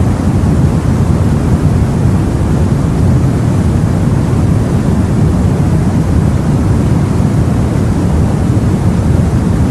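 Steady, deep, even rushing noise of the sea heard from aboard a boat, with no separate wave breaks or other events.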